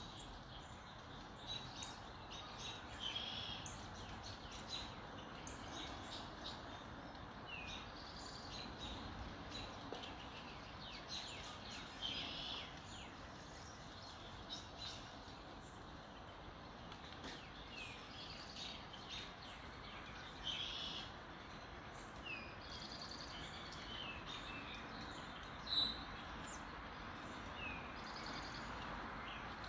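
Several small birds chirping and trilling in a dawn chorus, short high calls overlapping over a steady background hiss.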